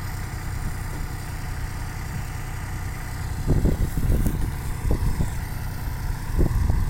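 Kubota farm tractor's diesel engine running steadily, with a few low thumps about halfway through and again near the end.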